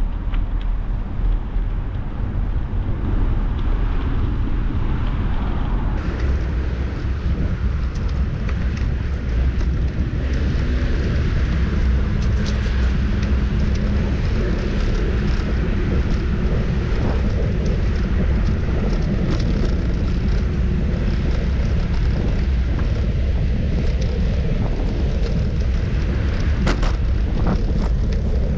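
Wind buffeting a camera microphone on a moving bicycle, mixed with road traffic noise.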